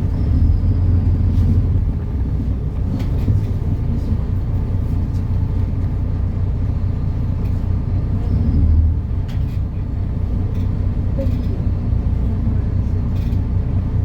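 MAN Lion's City NL293 city bus's diesel engine running with a steady low drone that swells briefly about two thirds of the way through, with scattered clicks and rattles.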